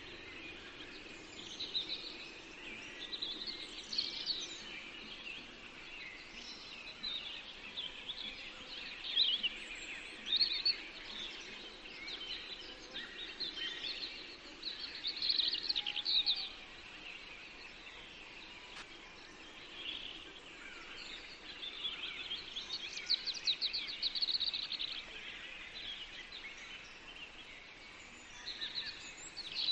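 Several songbirds singing in a forest, overlapping chirps and trills over a faint steady background hiss.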